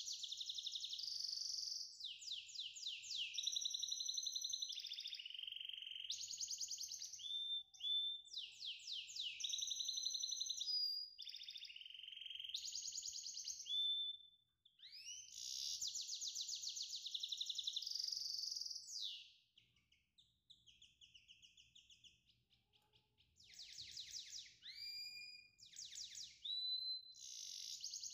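A small songbird singing in long runs of rapid trills, held whistled notes and quick upward slides, with a pause of a few seconds past the middle.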